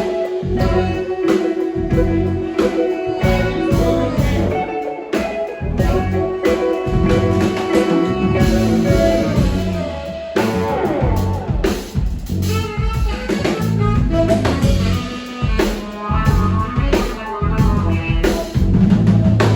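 Live band playing: guitar over a drum kit, with held guitar notes and a steady drum beat.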